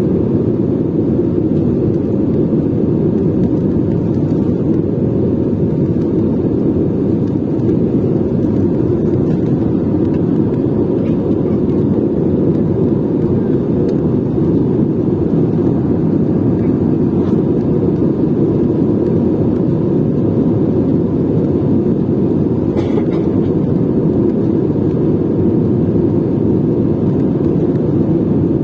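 Steady low roar of a jet airliner, unchanging in level throughout, with a faint steady hum above it.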